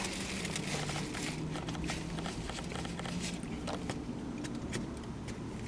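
A person chewing food, with many small clicks and rustles, over a low steady hum.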